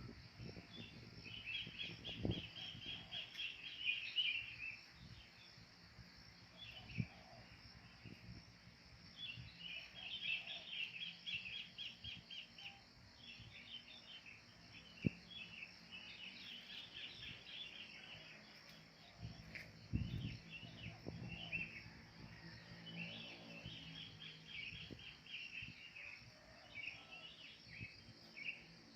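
Wild birds calling in phrases of quick repeated chattering notes, one to three seconds long, over a steady high insect buzz. A few dull thumps come through, the strongest about twenty seconds in.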